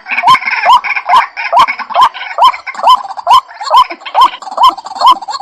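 White-breasted waterhen (ruak-ruak) calling: a rhythmic run of short, upward-hooked notes repeated about two to three times a second.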